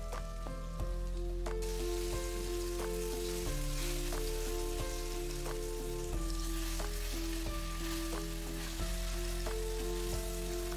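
Flour-dredged chicken breasts sizzling as they fry in oil in a nonstick frying pan. The sizzle grows stronger about a second and a half in. Instrumental background music with held notes plays under it.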